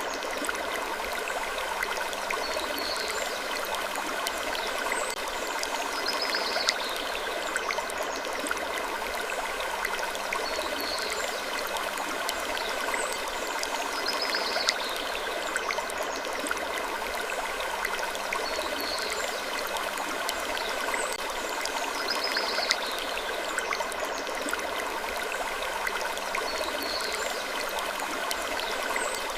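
Steady sleep-ambience bed: a continuous rushing hiss like running water, with soft wood creaks recurring about every two seconds.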